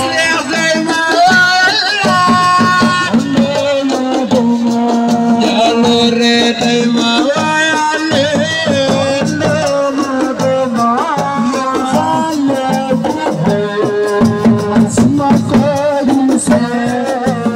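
Live assiko band music: a melodic voice or instrument line over hand drums and rattling percussion in a steady rhythm.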